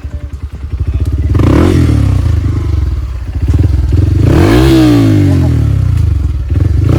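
Off-road trail motorcycle engine chugging at low revs, then revved up about a second and a half in and again near five seconds in, the pitch rising with each rev and holding high.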